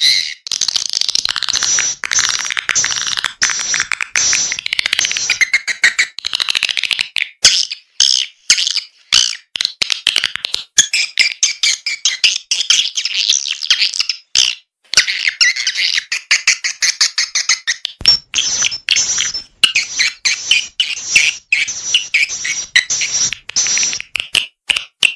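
Swiftlet lure call: a recording of edible-nest swiftlets twittering in dense, rapid chirps, the call played at swiftlet houses to draw the birds in to nest. It is choppier, with short breaks, about a third of the way in and again near the middle.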